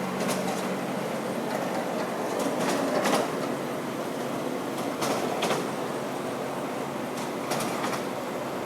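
Moving truck's ladder lift running, its carriage clattering and rattling along the ladder track in repeated bursts over a steady rumble.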